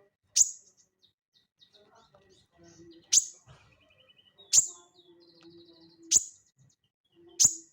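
A sogon (sogok ontong) calling: five loud, sharp, high chips spaced about a second and a half apart, with softer twittering between them.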